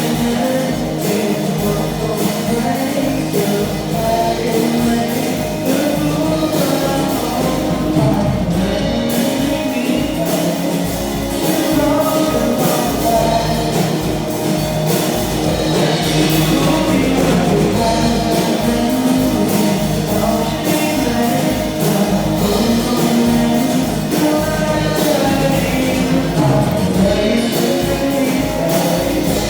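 A rock band plays a song with a lead singer over guitar and drums.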